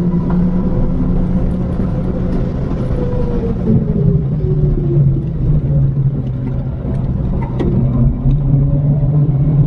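Mini R56 John Cooper Works Clubsport's turbocharged four-cylinder engine heard from inside the cabin, driving at speed on track. The engine note drops about three and a half seconds in, holds lower, then rises again near the end.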